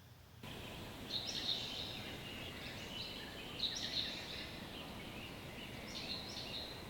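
A bird singing a short, high, chirpy phrase three times, about every two and a half seconds, over a steady background hiss of outdoor noise.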